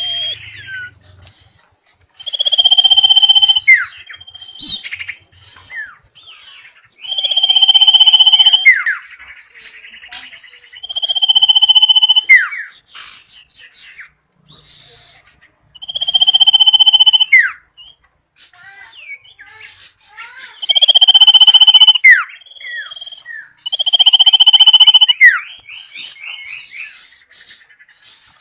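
Common iora (sirtu or cipow) singing: six long, loud, held whistled notes every four to five seconds, each ending in a quick falling note, with soft chirps between them.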